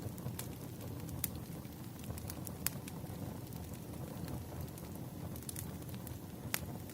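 Wood fire burning, a steady low rumble with scattered sharp crackles and pops of burning logs, the loudest about a second in, near three seconds and near the end.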